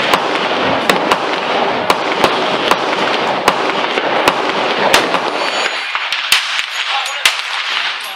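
Gunfire at a shooting range: many sharp pistol reports at irregular spacing, several a second, from more than one gun, over a dense hiss that thins out about six seconds in.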